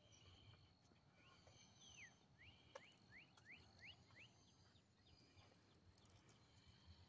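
Faint birdsong: a bird sings a quick run of about eight sweeping whistled notes, starting about two seconds in and lasting two to three seconds.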